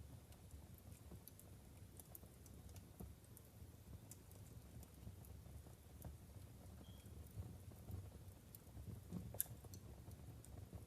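Logs burning in a wood fireplace, crackling faintly with scattered small sharp pops over a low steady rumble. There is one louder pop about nine seconds in.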